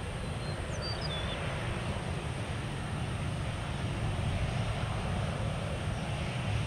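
Steady rumble of jet airliner engines, with a few short bird chirps about a second in.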